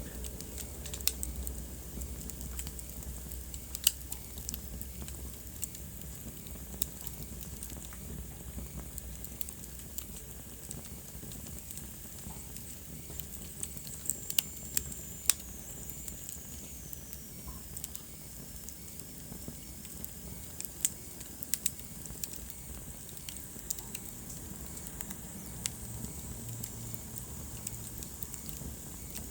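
Wood fire crackling in a fireplace: irregular sharp pops over a steady low hiss, with a faint high whistle that glides down in pitch about halfway through.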